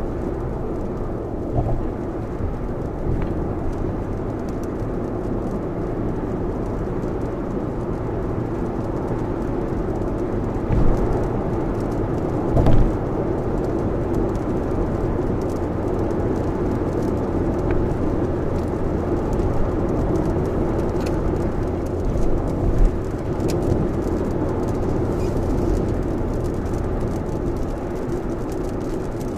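Steady road and rain noise inside a Lexus RX's cabin at expressway speed in heavy typhoon rain, with a few brief dull thumps.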